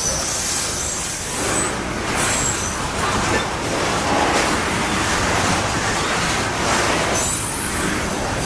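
Cars of a Canadian Pacific coal train rolling past: a steady rumble and rattle of steel wheels on rail, with thin high wheel squeals coming and going.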